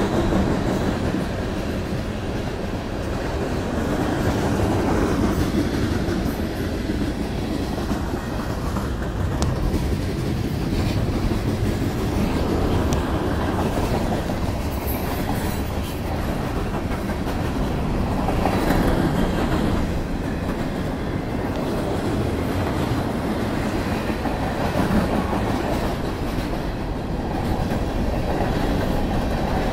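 Freight train cars rolling past at close range: steady rolling noise of steel wheels on the rails from a long string of covered hoppers, lumber-loaded centerbeam flatcars and tank cars.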